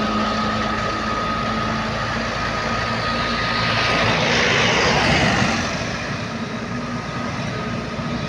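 Old truck's engine running hard on a steep uphill climb, with a rushing noise that swells to its loudest a little past halfway and then eases off.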